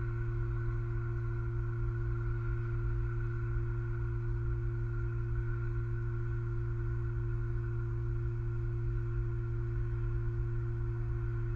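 Steady electrical hum in the nest camera's audio: a few constant tones, the lowest the strongest, over a low rumble, with no change.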